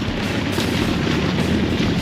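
A car engine running with a deep, rumbling exhaust, growing slightly louder.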